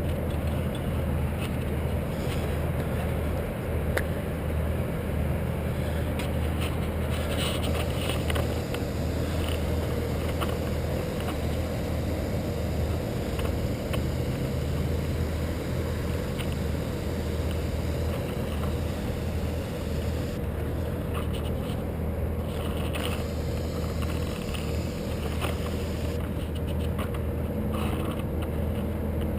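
A vehicle engine running steadily with a low, even hum and a few faint ticks, typical of the lift truck that hoists the worker up the tower.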